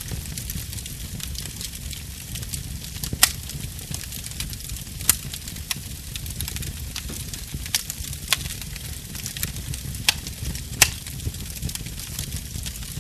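Burning wood crackling, with frequent small pops and several louder sharp snaps, over a low steady rumble.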